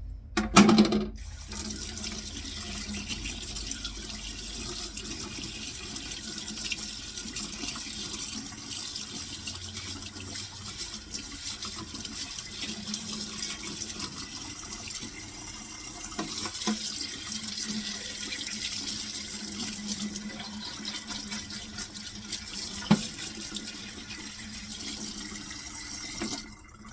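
Kitchen tap running steadily, with water splashing over a dishwasher's bottom spray arm as it is rinsed out, the arm clogged with debris. A sharp knock sounds about a second in and another near the end.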